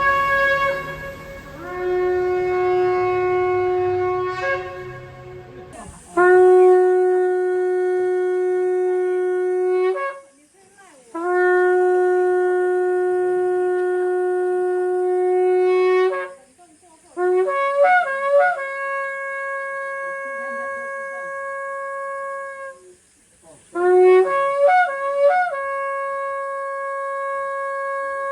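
Shofar (ram's horn) being blown: a series of long held blasts, each several seconds, with short breaths between. The later blasts open with a few quick broken notes, then jump to a higher held note.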